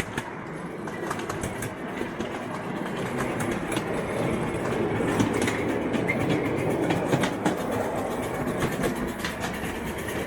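A garden railway train running along its track, its wheels clicking over the rail joints in a steady rattling run. It grows louder toward the middle and eases off again near the end, as the train passes.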